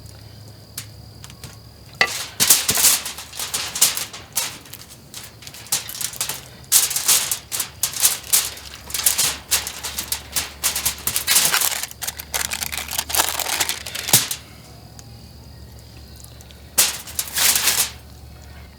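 Rapid, irregular clicking and crackling in dense runs, starting about two seconds in and stopping about fourteen seconds in, with one more short burst near the end.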